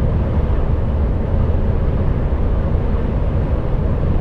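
Steady low rumble inside the cab of an HGV lorry at motorway speed: diesel engine drone mixed with tyre and road noise.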